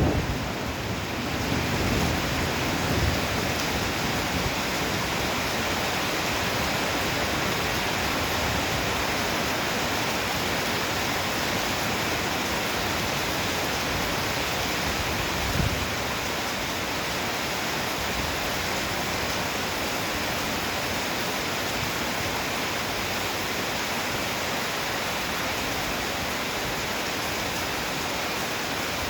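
Heavy downpour, a steady rush of rain. A rumble of thunder dies away in the first few seconds, and a brief low thump comes about halfway through.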